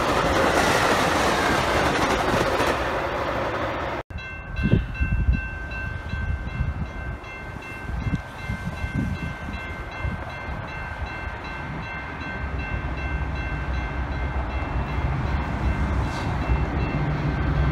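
Bilevel Metra commuter cars roll past on the rails. After a cut, steady high ringing tones sound over occasional wind gusts on the microphone. A double-headed Metra diesel train approaching grows steadily louder near the end.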